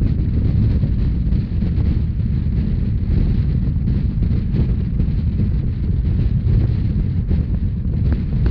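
Rhaetian Railway narrow-gauge train running at speed: a steady low rumble of wheels on rail, with wind buffeting the microphone.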